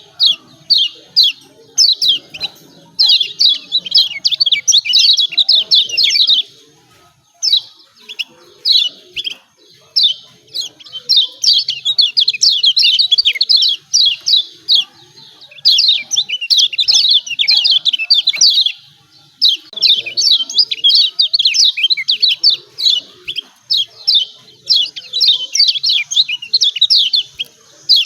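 Kecial kuning, a Lombok white-eye, giving fast, high chattering 'ciak ciak' calls. They come in runs of a few seconds, broken by short pauses.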